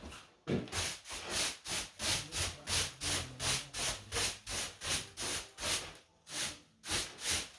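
Stiff brush scrubbing back and forth over grouted stone, about three strokes a second, with a short break about six seconds in.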